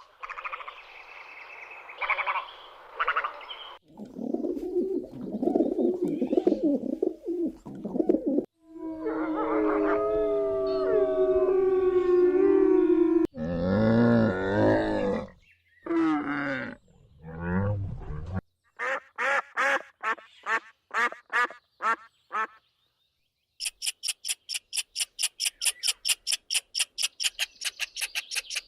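A sequence of different animal calls, one after another, each a few seconds long, with short gaps between them. Partway through there are gliding, whistle-like calls. Near the end comes a fast, even run of high-pitched pulses, about five a second.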